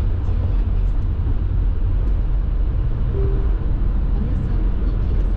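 Steady road noise of a car driving on an expressway, heard inside the cabin: a low, even rumble of tyres and engine. A short faint tone sounds about three seconds in.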